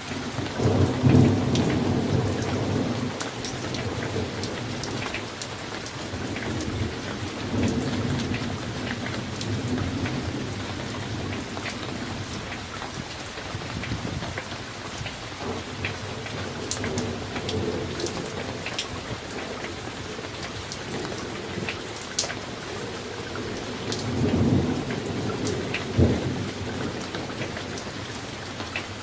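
Summer thunderstorm: steady rain falling with scattered individual drop ticks, and rolling thunder, loudest about a second in, rumbling again several times, with a sharper clap near the end.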